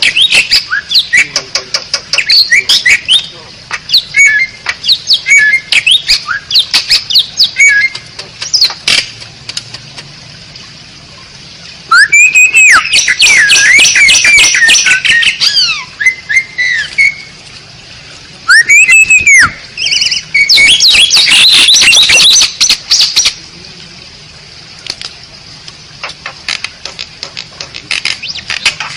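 Asian pied starling (jalak suren) singing: quick runs of short chirps and clicks, broken about halfway through by loud bursts of varied song with rising and arched whistles mixed with harsh, squawky notes.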